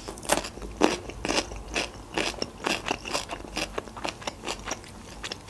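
Close-miked chewing: a person eating a mouthful of food with a run of short, irregular clicks and smacks, about two or three a second.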